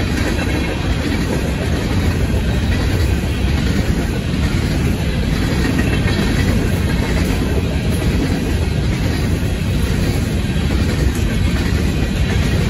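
Loaded covered hopper cars of a freight train rolling past at a grade crossing, their steel wheels on the rails making a loud, steady rumble and clatter.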